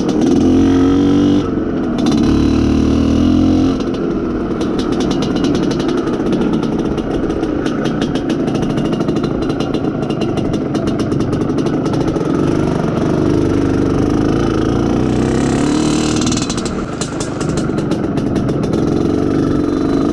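IZh Planeta Sport's single-cylinder two-stroke engine pulling the motorcycle under way, its note rising and falling with the throttle. The engine is being run in.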